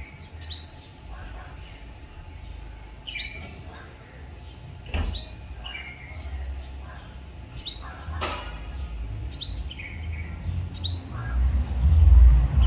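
A small bird giving short, high chirps that slide downward, one every couple of seconds, six in all. Under them is a low rumble that grows louder near the end, with a sharp click about two-thirds of the way through.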